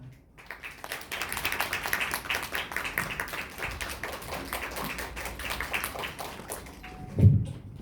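Theatre audience applauding: dense clapping of many hands that thins out toward the end, with a brief low sound just before it stops.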